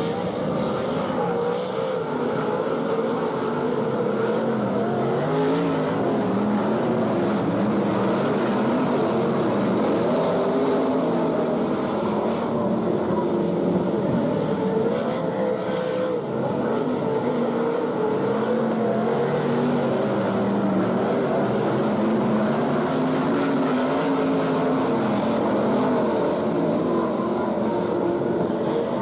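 A pack of sprint cars racing, several V8 engines at once, their pitches rising and falling together as they accelerate and lift off.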